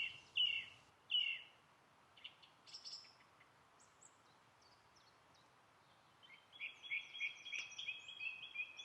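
Song thrush singing: a short phrase repeated about three times, a few thinner high notes, a pause of a couple of seconds, then a fast run of repeated notes near the end.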